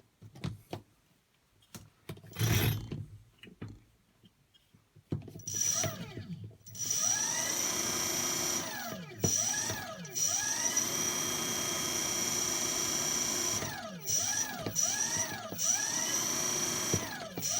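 Car alternator converted into a three-phase brushless motor, driven by a motor controller: after a few faint clicks it starts whining about five seconds in as it spins up, then runs with a steady whine whose pitch dips and rises several times as its speed changes. A steady high-pitched electronic whine runs alongside while it turns.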